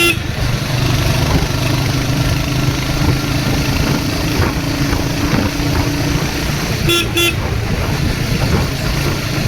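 Royal Enfield Hunter 350's single-cylinder engine running steadily on the move, with road and wind noise. A horn gives a short toot at the very start and two quick toots about seven seconds in.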